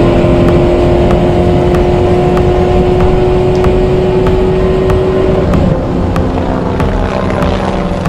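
Sound effect of a sports car running flat out: a steady high engine note over rushing wind and road noise, its pitch sliding slightly down. About six seconds in the engine note stops and a quieter, lower machine sound takes over.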